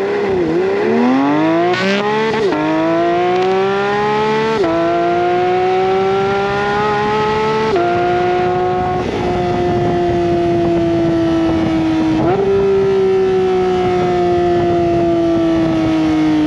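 Porsche 992 GT3's naturally aspirated flat-six accelerating hard through the gears. The pitch climbs and drops sharply three times at quick upshifts, then jumps up once on a downshift and slowly falls as the car eases off.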